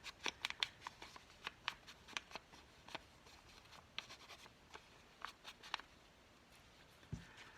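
Quiet, irregular light taps and scuffs of paper being inked, with an ink pad dabbed and rubbed over scraps of dictionary page. The taps thin out about six seconds in, and there is a single soft thud near the end.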